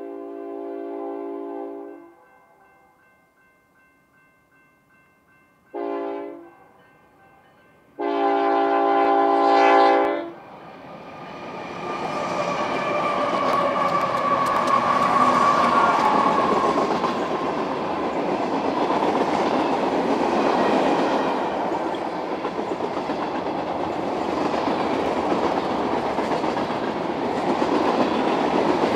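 Freight train locomotive horn sounding three blasts, long, short, long, as a crossing warning. Then the Union Pacific diesel locomotives and the freight cars' wheels rumble and clatter past on the rails, the noise building from about eleven seconds in and staying loud.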